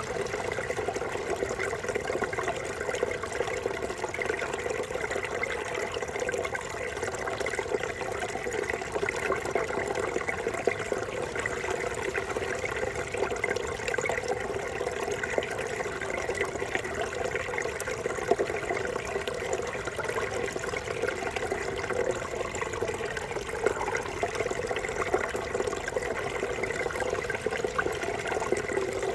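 Small forest brook babbling steadily, an even rush of water with many small splashes and gurgles.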